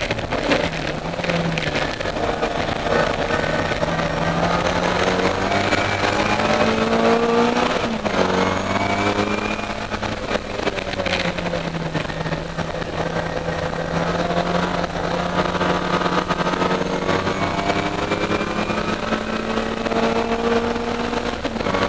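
Racing Austin Mini Cooper's BMC A-series four-cylinder engine heard from inside the cabin under hard driving: revs climb for several seconds, fall away sharply about eight seconds in as the car slows for a corner, then build steadily again as it accelerates out.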